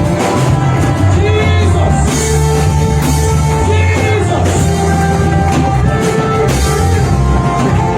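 Worship music from a band: steady bass notes, drums and sustained chords, with singing.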